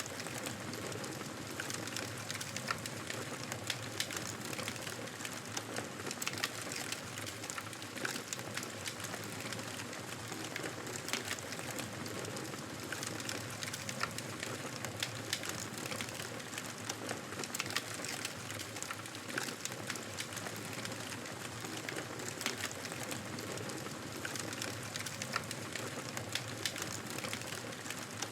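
Wood fire crackling in a fireplace: a steady soft hiss with frequent sharp pops and snaps scattered irregularly throughout.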